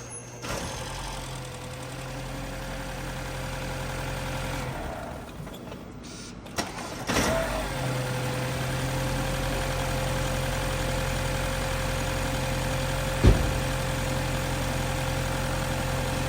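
2017 BMW 330e plug-in hybrid being started on jumper cables after its small front 12-volt battery went flat. A steady running hum stops about five seconds in, there is a click, then the car starts again about seven seconds in and keeps running steadily, with a single sharp knock near the end.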